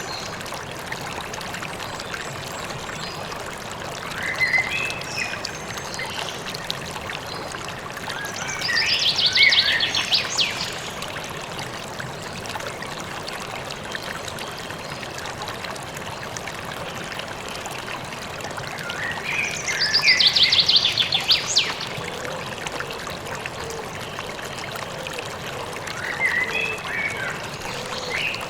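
River water running steadily with birds chirping over it. Two louder bursts of rapidly repeated high notes come about 9 and 20 seconds in, with shorter chirps around 4 and 26 seconds.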